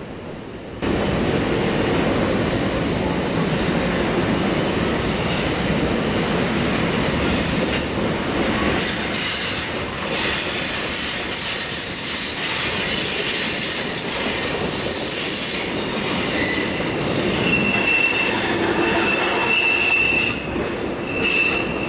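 Freight train cars rolling past with steady rolling noise and wheel squeal, high thin whines that come and go, from the wheels on the curving track. The sound starts about a second in.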